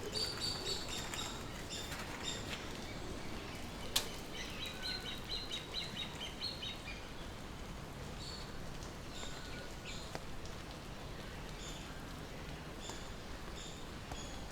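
Birds chirping and calling in an aviary, with a quick run of repeated chirps about five seconds in. A single sharp click about four seconds in is the loudest sound, over steady low background noise.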